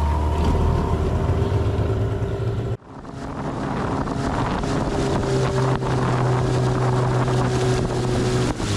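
Boat outboard motor running steadily under way, with wind rushing over the microphone. The sound breaks off sharply about three seconds in, then comes back just as steady.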